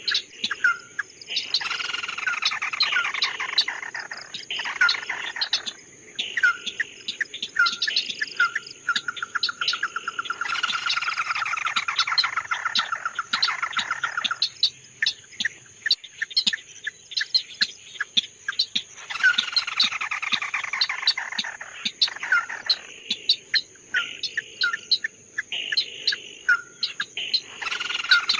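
A songbird, the Vietnamese 'chim mắt đỏ' (red-eyed bird), singing in long, rapid, falling trills, with short sharp whistled notes between them. A faint steady high-pitched hum runs underneath.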